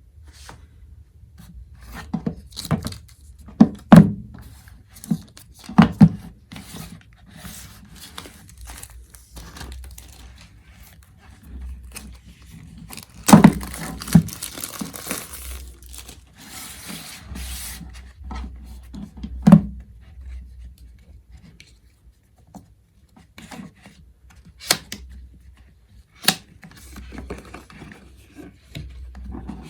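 Packaging being handled and opened by hand: paper tearing and crinkling, scraping, and several sharp knocks of the box being handled and set down.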